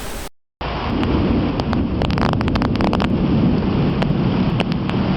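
A steady rumbling noise, like wind or a storm, with scattered crackles, starting after a brief moment of total silence.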